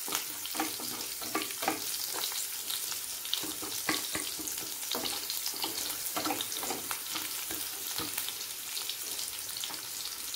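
Sliced small shallots and curry leaves sizzling in hot sesame oil in a non-stick kadai, with a steady hiss, while a wooden spatula stirs them, scraping and tapping against the pan again and again.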